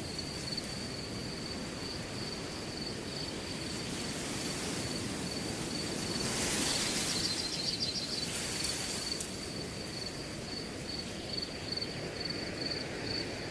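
Wind blowing through grass, with crickets trilling steadily in a high, fast-pulsing tone. A stronger gust of wind swells about halfway through and dies away.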